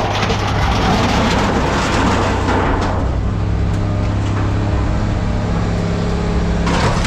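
Heavy machine's diesel engine running steadily, with scrap metal clanking and scraping for the first three seconds or so.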